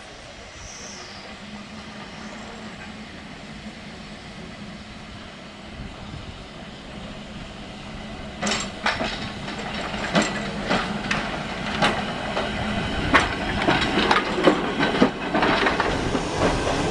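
Vintage electric tram under way: a steady low hum as it runs, then from about halfway an uneven clatter of wheels knocking over rail joints that grows louder.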